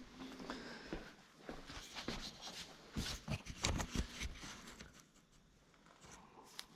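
Quiet, scattered clicks and knocks of small objects being handled, busiest between two and four seconds in.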